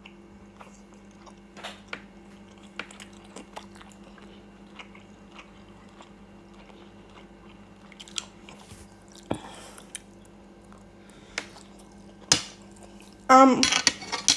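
A person eating: chewing and biting with small clicks and crunches, over a steady low hum. Near the end, a short loud vocal sound.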